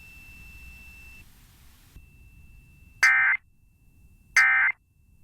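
Emergency Alert System end-of-message data bursts: two short, loud, identical bursts of raspy digital tones about a second and a half apart, marking the end of the tornado warning broadcast.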